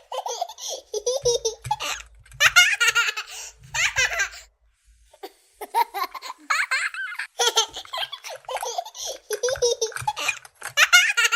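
A small child laughing in repeated bursts of high-pitched giggles, with a short pause a little before halfway.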